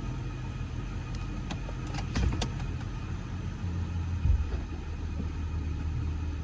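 Infiniti Q45's VH41DE V8 idling steadily and smoothly, the misfire and rough idle gone now that the failed ignition coil has been replaced. A few light clicks come about two seconds in, and a knock just past four seconds.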